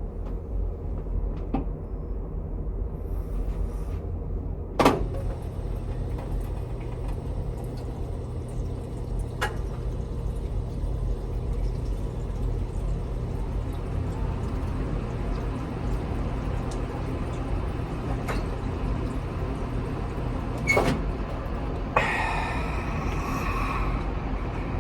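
Steady low rumble of background noise with a sharp knock about five seconds in and a few fainter clicks after it.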